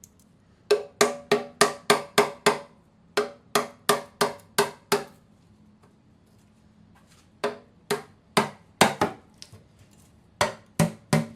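Hammer blows on metal with a short ring, in quick runs of about five to seven strikes at three or four a second with pauses between: working a diesel engine's oil pan loose from its thick RTV sealant.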